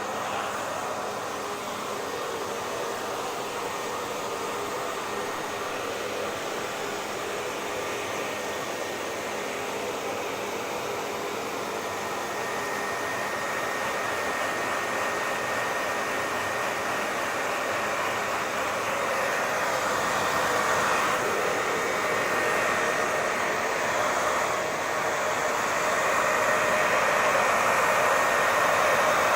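Hair dryer running continuously: a steady rushing whoosh of blown air with a faint motor whine, growing slightly louder toward the end.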